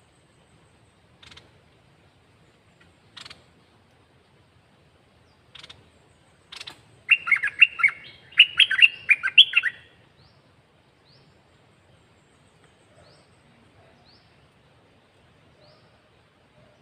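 Caged red-whiskered bulbul singing: a few scattered single notes, then a loud, quick warbling phrase lasting about three seconds near the middle, followed by faint short high chirps.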